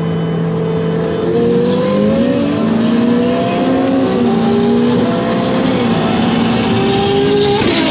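Ferrari engine heard from inside the cabin, accelerating hard: its pitch climbs in steps with short drops at each upshift, then cuts off just before the end.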